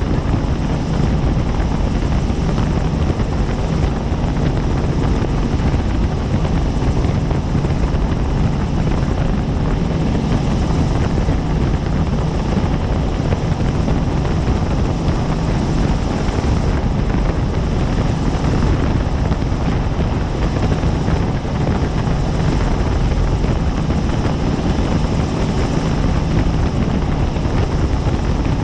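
Helicopter in flight, heard from on board: a loud, steady rotor and turbine drone, heaviest in the low end, unchanging throughout.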